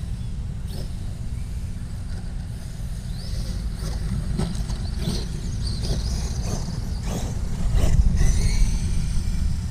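Electric RC truck's motor whining, rising and falling in pitch several times as it speeds up and slows, with several sharp knocks. A heavy low rumble runs under it all.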